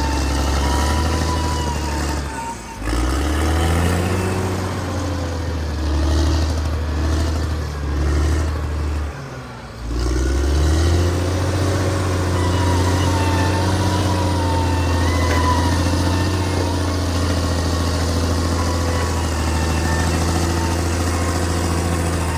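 Cat D6R XL bulldozer's diesel engine working steadily, with a wavering high whine over it. Its note sags briefly about three seconds in and again near ten seconds, then climbs back and holds.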